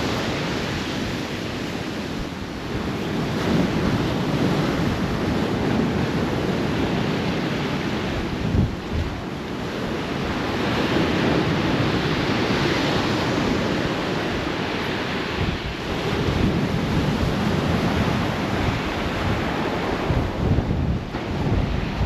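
Storm-force wind buffeting a GoPro microphone through its windsock, over rough sea surf breaking on the shore. A loud, steady rush that swells and eases every few seconds.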